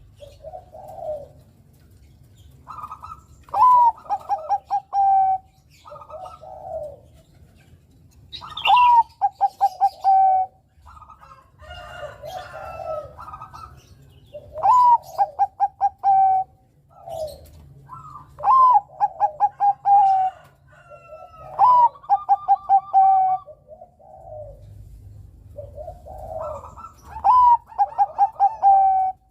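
Zebra dove (Bangkok-bred perkutut) singing its cooing song: a rising note followed by a fast run of short coos, repeated several times with softer coos in between.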